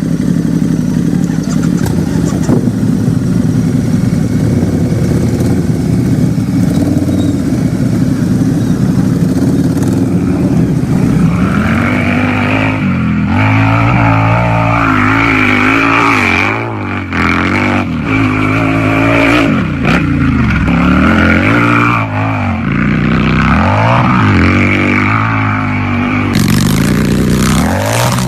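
Harley-Davidson motorcycle's V-twin engine idling steadily for about eleven seconds, then revved over and over, its pitch rising and falling with each blip of the throttle.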